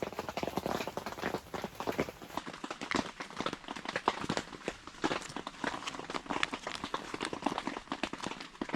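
Cream shrimp frying in hot oil, the oil crackling and popping in a dense, irregular patter.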